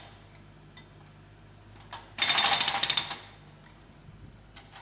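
Excavator-mounted hydraulic breaker hammering into a concrete footpath: a loud burst of rapid strikes lasting about a second, starting about two seconds in.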